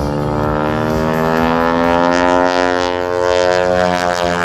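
Boeing Stearman biplane's radial engine and propeller running at high power through an aerobatic maneuver, its pitch rising gently and then easing off again.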